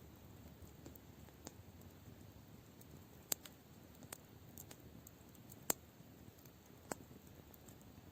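Campfire crackling: a few sharp pops of burning wood at irregular intervals, the loudest about three and a half and six seconds in, over a faint steady hiss.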